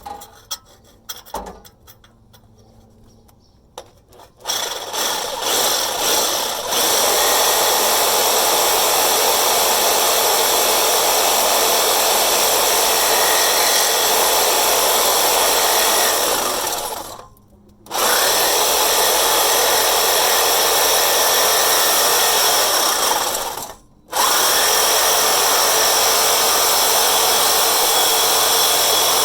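A few clicks and knocks, then a corded power tool starts and runs steadily, cutting through the exhaust pipe, with two brief stops in the second half before it runs on.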